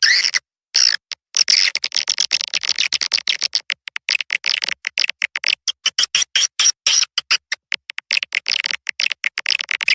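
Swiftlet lure call for a bird house: a looped recording of edible-nest swiftlets chattering and twittering, high-pitched and chopped by many quick breaks.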